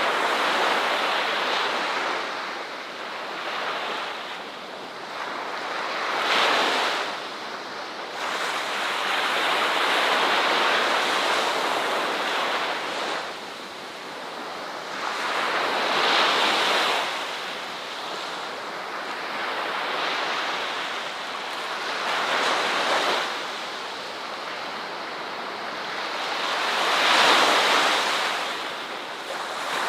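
Ocean waves breaking and washing on a shore, a steady surf hiss that swells and falls every few seconds, with stronger surges several times.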